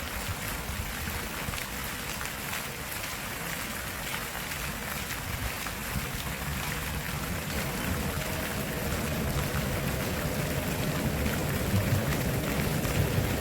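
Running water rushing steadily, the sound of a stream, with a gusty low rumble from wind on the microphone; it grows slightly louder toward the end.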